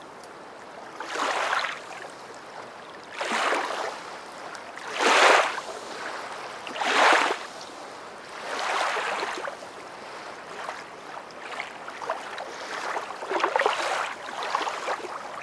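Water lapping in repeated soft swells, about one every two seconds, with a low wash between them.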